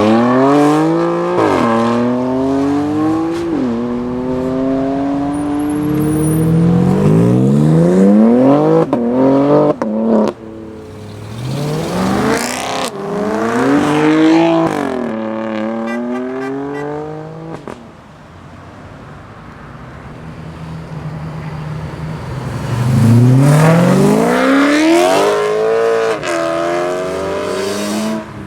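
Modified BMW M cars accelerating hard one after another, their engines revving up through the gears with the pitch dropping at each upshift. A quieter lull about two thirds through, then another car pulls hard near the end.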